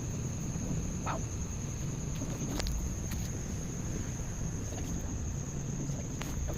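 Night insects droning steadily on one high pitch over a low rumble, with a couple of brief chirps, one about a second in and one near the middle.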